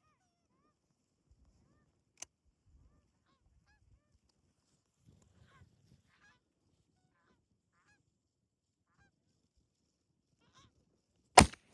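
Distant geese honking faintly and scattered, from a flock near the decoy spread. Near the end a sudden loud bang cuts in.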